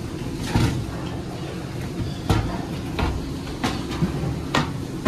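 A series of sharp metal knocks and clanks, about six spread unevenly, from handling a gas furnace's panels and parts, over a steady low hum.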